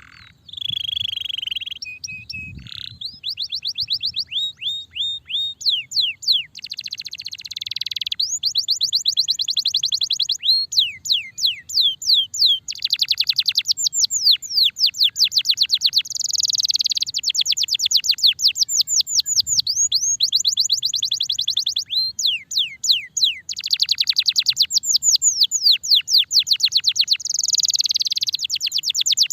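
Starblue canary singing in full song: a long unbroken run of fast trills, rows of quick falling notes several to the second, broken by short buzzy rattles.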